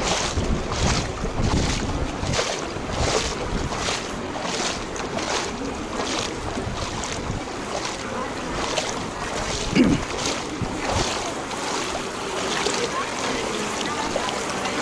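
Footsteps wading through shallow floodwater, a regular splash about twice a second that grows fainter in the last few seconds, with one louder knock near the middle.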